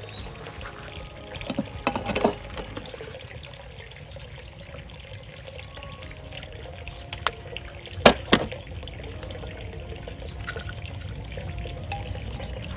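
Steady trickling water, with a few sharp knocks about two seconds in and again about eight seconds in.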